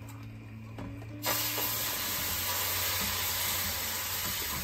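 Hot water poured into a hot pan of butter-toasted cornmeal, setting off a loud hissing sizzle that starts suddenly about a second in and carries on steadily: the water stage of making muhlama.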